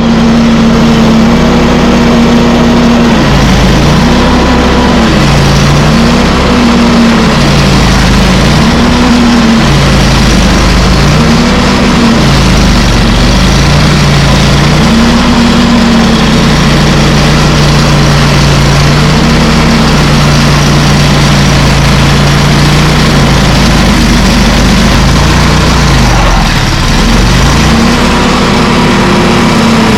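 An engine running loudly, its speed rising and falling over and over, with a longer lower stretch past the middle.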